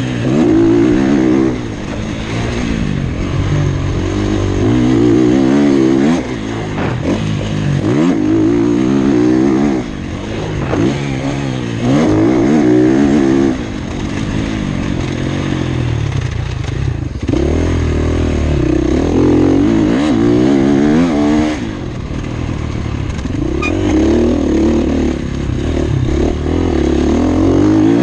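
Motocross bike engine revving hard and easing off again and again, its pitch climbing and dropping every couple of seconds, heard from a camera mounted on board.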